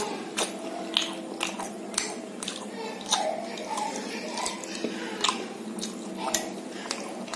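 Close-up chewing and biting of crisp fried food, sharp crunches coming about twice a second.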